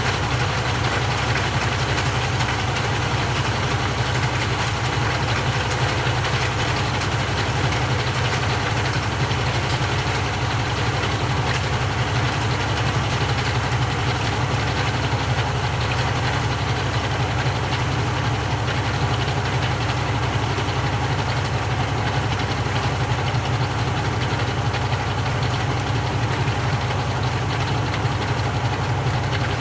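Samsung 6.5 kg top-loading washing machine running with a steady low motor hum and a constant rumble that does not pause or change.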